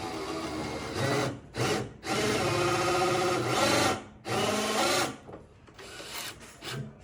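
A handheld electric power tool, such as a drill, runs in four bursts of motor whine over about five seconds; the longest burst lasts about two seconds. After that come only a few faint taps.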